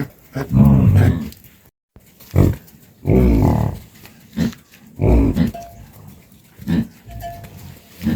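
An animal calling repeatedly in a series of short, loud pitched calls with brief pauses between them.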